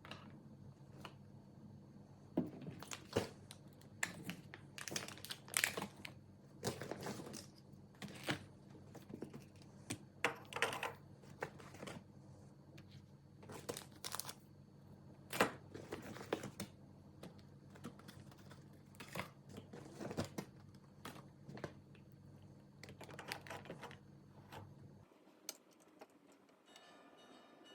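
Cosmetics packaging handled by hand: irregular light clicks and taps of containers and caps, with crinkling and rustling of wrappers, over a low steady hum that drops away near the end.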